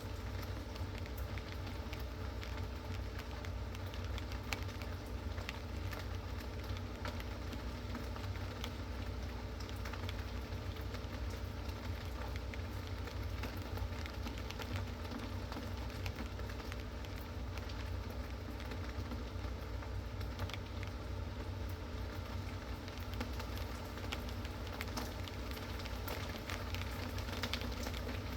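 Steady rain falling, with many separate drops ticking sharply on a hard surface over a low steady rumble.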